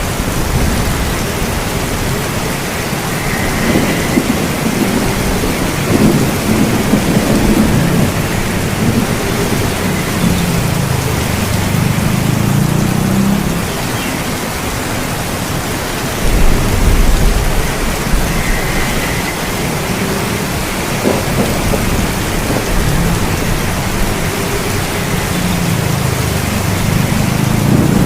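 Steady rain falling, with thunder rolling in low, drawn-out rumbles several times.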